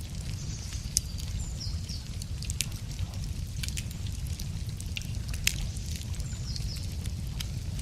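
Wood campfire crackling, with sharp irregular pops from the burning logs over a steady low rumble, and faint songbird chirps a couple of times.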